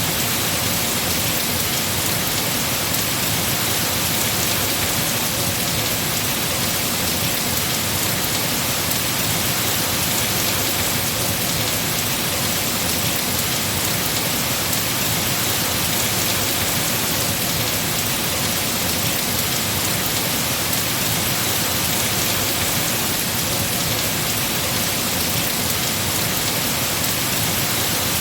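Heavy rain falling on trees, a steady, unbroken hiss of drops on leaves.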